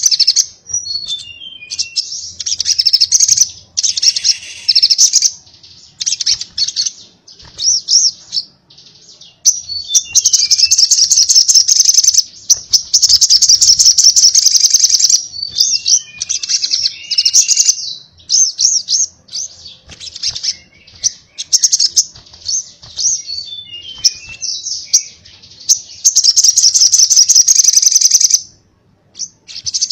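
Brown-throated sunbird (sogok ontong) singing its fast, high, rattling 'konslet' song in chattering bursts, some held for several seconds. The bursts are broken now and then by short runs of descending notes.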